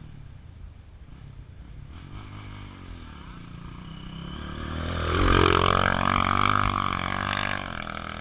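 Off-road trail motorcycle engine revving under load. It grows louder from about two seconds in and is loudest past the middle, its pitch dipping and climbing again as the throttle is worked, then eases off near the end.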